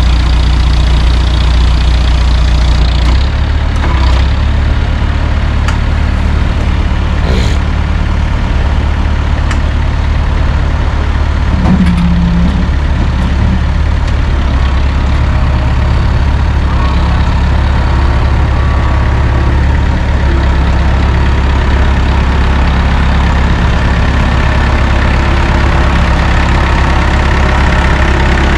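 Heavy truck engine idling steadily, its low note shifting slightly about three seconds in, with a few faint clicks.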